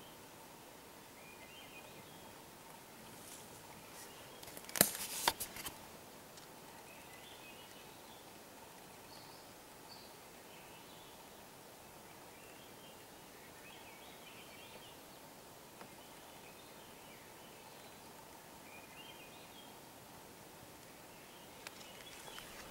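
Quiet woods with faint small-bird chirps every second or two over a low hiss. A short burst of sharp clicks or snaps about five seconds in is the loudest sound, and there are a few more clicks and rustling near the end.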